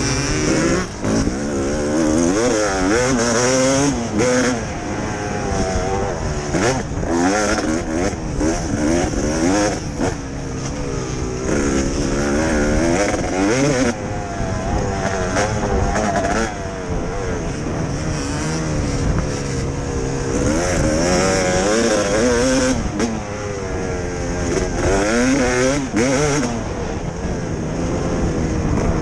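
1999 Kawasaki KX250's single-cylinder two-stroke engine racing under load, its pitch rising and dropping back over and over as the rider accelerates and rolls off the throttle for the turns.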